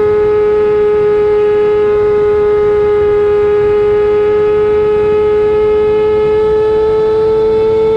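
Kawasaki ZX-10R's inline-four engine held at high, steady revs, a loud continuous high-pitched note that sags slightly and climbs back.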